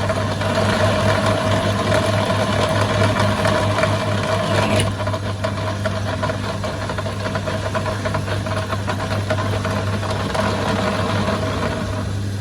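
A machine running steadily with a hum and a fast knocking rattle; about five seconds in its higher tone drops away and the rattle carries on.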